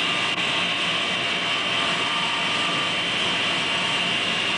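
Motor-generator unit running steadily: a 3/4-horsepower induction motor on mains AC spinning a 2900-watt generator, a steady whir with a high whine.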